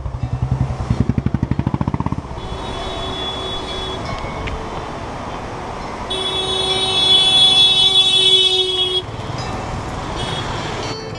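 Street traffic. A small engine putters close by for the first two seconds, then vehicle horns honk: a shorter one, then a loud honk held for about three seconds.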